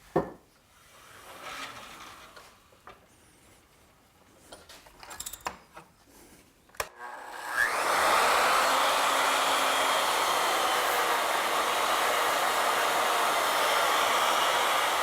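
A few light knocks and clicks of parts being handled, then about halfway through a woodworking router is switched on. It spins up with a short rising whine and runs at a steady high speed.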